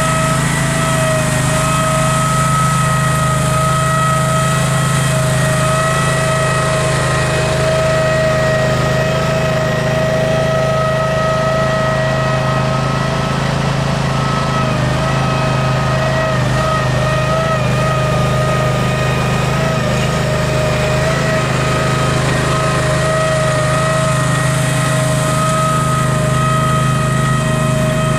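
Case 446 garden tractor's Onan twin-cylinder engine running steadily at constant speed, with a steady whine over the engine note.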